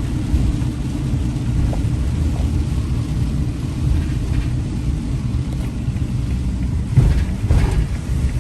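Steady low rumble of road and engine noise inside a moving RV, with a brief louder knock about seven seconds in.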